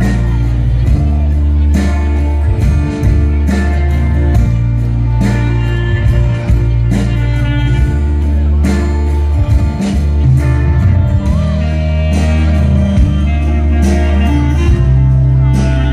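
Live band playing an instrumental break: steady bass and drums, with guitar and other instruments carrying the melody.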